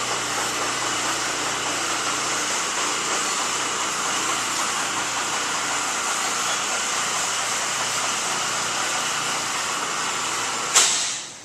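Steady whooshing hum of a running air-conditioning unit. It stops with a sharp click near the end, leaving a much quieter room.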